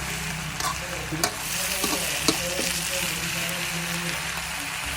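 Food sizzling as it fries in a pan, with a steady hiss and a utensil stirring and knocking against the pan a few times. A steady low hum runs underneath.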